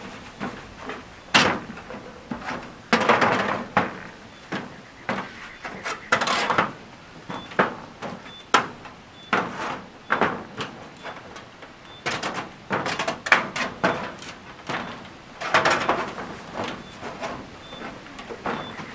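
Irregular knocks, pops and scrapes of a man's weight, hands and knees moving over a corrugated sheet-metal roof, with a few longer scraping stretches.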